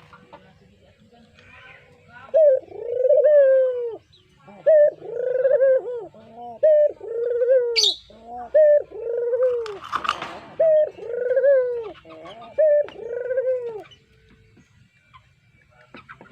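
Brown puter dove (Barbary dove) cooing: a run of about ten low, repeated coos starting about two seconds in and stopping a couple of seconds before the end. A short high chirp and a brief burst of noise fall in the middle of the run.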